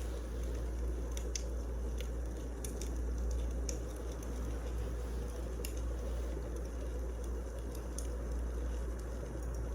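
Wood fire burning in a fireplace: a steady low rumble of flames with scattered sharp crackles and pops from the burning logs, irregular and never more than a second or two apart.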